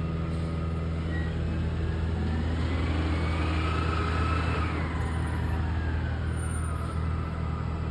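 Garbage truck's diesel engine running steadily close by, with a whine that rises over the first few seconds and falls away again later on.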